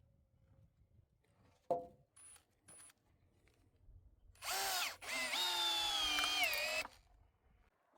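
Small electric power-tool motor, drill-like: two short blips, then a short run and a longer run of about two seconds whose whine sags slightly in pitch before it stops.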